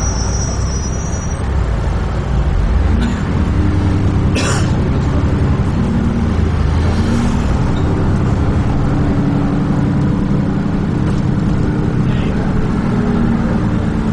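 Dennis Trident 2 double-decker bus engine running under way, heard from inside the bus: a steady low drone that gets louder about two and a half seconds in. A short hiss comes about four and a half seconds in, and there are a few faint clicks.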